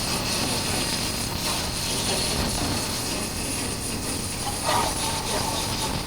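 Honda CB400X parallel-twin engine running under way, mixed with steady wind rush on a chest-mounted camera, and a short brief sound about three-quarters of the way through.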